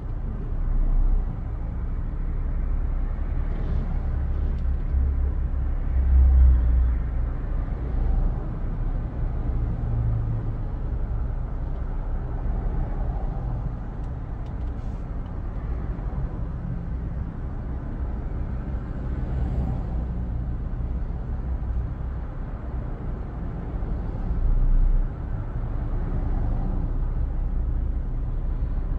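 Motor traffic: a steady low rumble of car engines, with a few louder swells.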